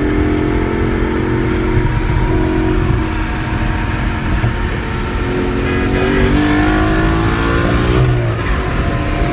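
2020 Ford Mustang GT's 5.0 V8 under hard acceleration, heard from inside the cabin over heavy road and wind rumble. The engine note climbs steadily, then drops sharply about eight seconds in at an upshift and starts pulling again.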